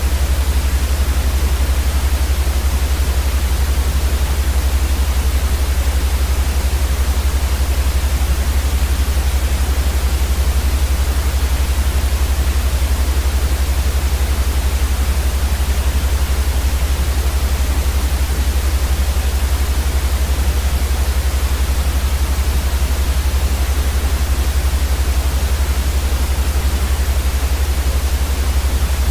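Continuous white noise for sleep: an even, unchanging hiss with a strong low rumble underneath.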